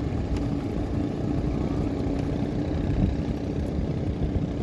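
Motorboat engine running steadily: a constant hum over a rough low rumble.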